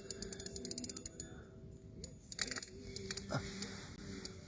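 Fishing reel clicking during the fight with a lake sturgeon: a quick run of small ticks in the first second, then a few scattered clicks, over a faint steady hum.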